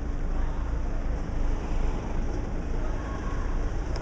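Steady outdoor city background noise, a low rumble with no distinct events.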